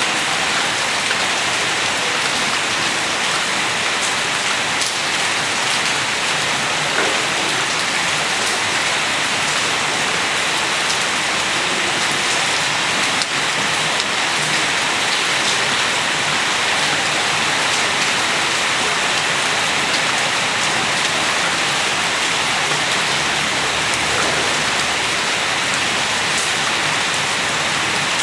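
Steady rain falling and pattering on hard surfaces, an even hiss with many small drop ticks.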